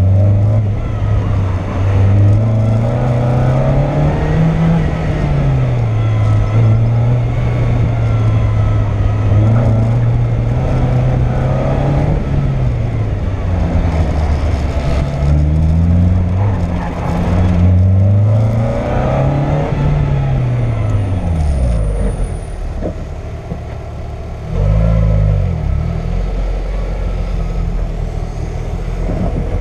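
Car engine driven hard through a cone course, revving up and down so its pitch rises and falls every few seconds. About three-quarters of the way through it drops to a low note, revs briefly, then settles to a steadier lower running.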